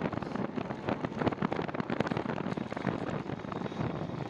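Wind buffeting on the microphone of a camera on a moving bicycle: a steady, rough rush of noise with rapid flutter and no clear tone.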